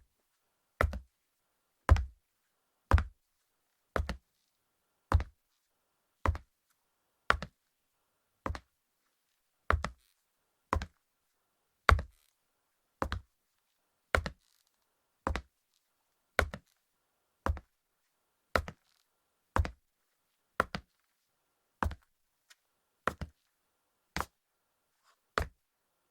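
Footsteps of leather hard-soled sandals walking on a hardwood floor at a steady pace of about one step a second. Each step is a sharp knock followed by a lighter second hit. The steps stop shortly before the end.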